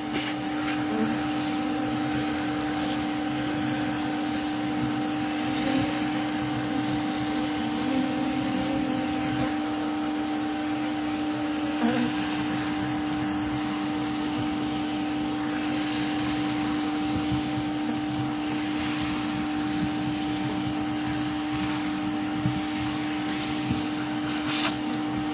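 Vacuum motor running steadily with a constant humming tone over a rushing airflow, the kind of bee vacuum used to suck bees out of a wall cavity. A few faint knocks are heard along the way.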